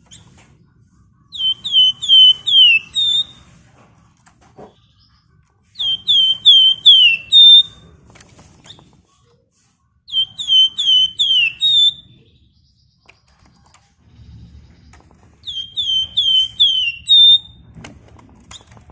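Flamboyan (wergan Jawa) songbird singing the same whistled phrase four times, a few seconds apart: each phrase is a quick run of about five falling whistles ending on a short level note.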